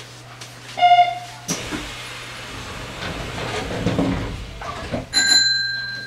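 Hanshin commuter train standing at a station platform with the door-and-departure signals going: a short electronic chime about a second in, a sharp clunk, a stretch of rumbling door and train noise, then a steady high beep near the end.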